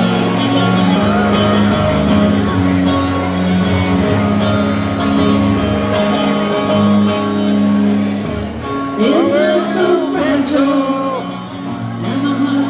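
Live band playing the slow instrumental intro of a ballad: long held chords with guitar. A voice is heard briefly about nine seconds in.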